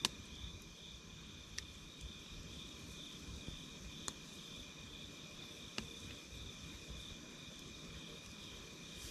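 Wood campfire burning with a low rustle and four sharp crackling pops, the first and loudest right at the start, over a steady, pulsing chorus of night insects calling in two high pitches.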